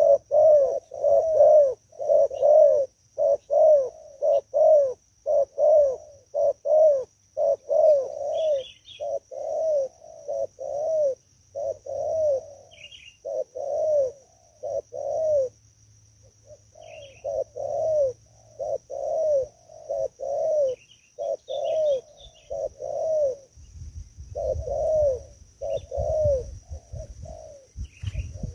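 Spotted dove cooing: a long run of low, arched coo notes in repeated phrases, with a short break about halfway. Faint high chirps of small birds and a steady faint high hiss sit behind it.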